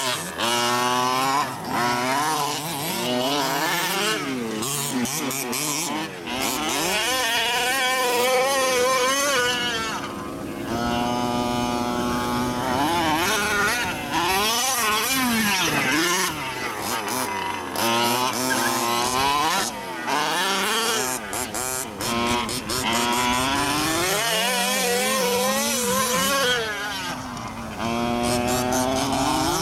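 Small two-stroke gasoline engine of a Losi 5T 1/5-scale RC truck, revving up and down over and over as the truck is driven.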